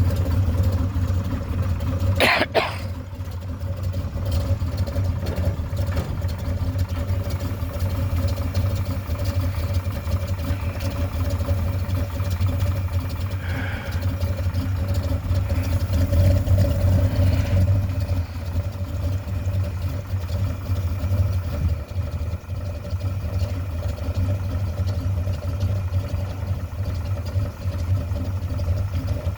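1981 Chevrolet Camaro Z28's V8 idling steadily while warming up after a cold start, with one sharp clunk about two seconds in.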